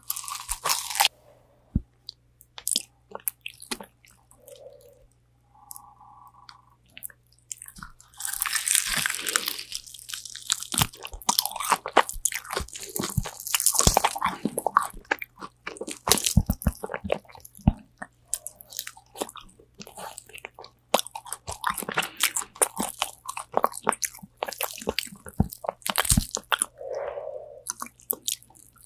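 Close-miked biting and chewing of crispy spicy Korean fried chicken wings: sharp crunches of the fried crust and wet mouth sounds. Sparse bites and clicks at first, then dense, continuous crunching from about a quarter of the way in.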